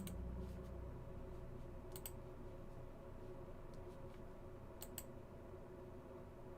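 A few faint, sharp clicks at a computer, with a pair about two seconds in and another pair about five seconds in, over a low steady hum.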